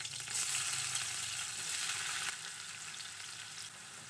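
Hot oil sizzling as chopped garlic and onion drop into a wok of frying lemongrass and curry leaves, then stirred with a plastic spatula. The sizzle swells about a third of a second in and dies down after about two seconds.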